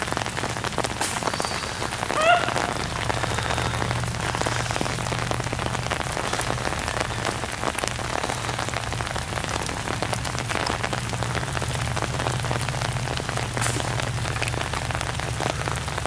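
Steady rain, an even hiss dotted with many small drop ticks. A brief rising call sounds about two seconds in.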